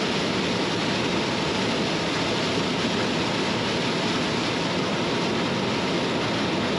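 John Deere 9500 combine running while harvesting corn: a steady, even rushing noise with no distinct rhythm.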